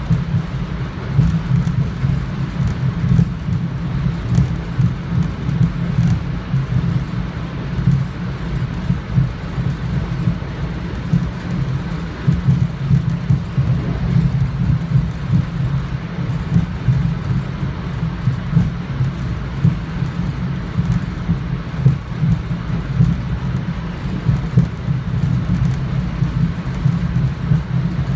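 NJ Transit commuter train running at speed, heard from inside a passenger coach: a loud, continuous low rumble of wheels on rail and the car body, fluttering in level without a break.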